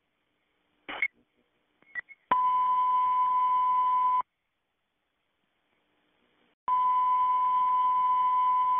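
Fire dispatch radio alert tone: a steady high beep held about two seconds, then after a pause of about two and a half seconds the same beep again, over the channel's hiss, with two short radio clicks before it. The tone calls all units to attention ahead of an emergency broadcast.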